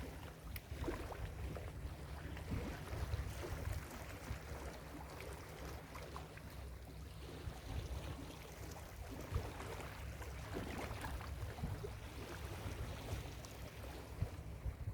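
Ocean surf washing steadily on a beach, with wind buffeting the microphone in a low, fluttering rumble.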